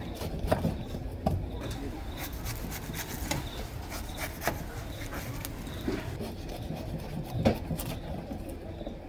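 A blade scraping at the shell of a wood-fire-roasted coconut, with a few sharp knocks where it strikes the shell; the loudest knock comes about seven and a half seconds in.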